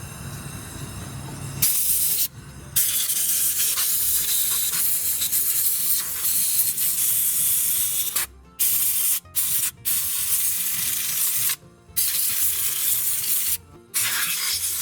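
Compressed air from an air-hose blow gun hissing in long blasts with short breaks between, about seven in all, blowing mouse-nest debris and grass out of a lawn tractor engine's cooling fins and flywheel.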